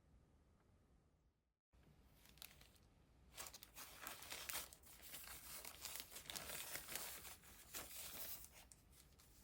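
Crinkling and rustling of something being handled, starting about three seconds in and lasting about five seconds, with many small crackles.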